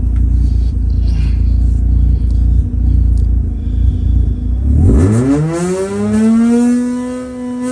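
Mazda RX-8's twin-rotor rotary engine idling warm, then revved hard about five seconds in: the pitch climbs fast and levels off high, held there. It pulls up through the rev range cleanly, with no hiccup.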